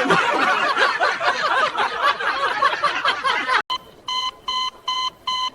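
A dense jumble of overlapping chirpy sounds, then it cuts off and a rapid electronic beeping starts, about three or four short beeps a second.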